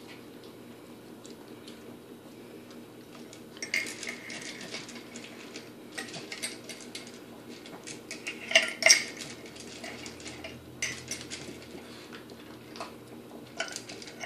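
A chihuahua eating from an upside-down slow feeder bowl: irregular bursts of clicking and clattering as she noses food out of the bowl's crevices, loudest about eight to nine seconds in.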